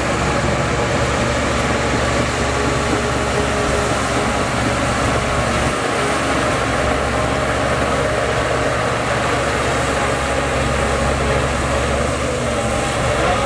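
Heavy diesel engine of earth-moving equipment running steadily at an even speed.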